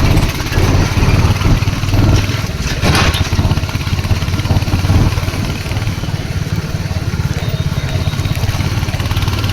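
Royal Enfield Hunter 350's single-cylinder engine running steadily while riding, a low hum under steady wind and road noise.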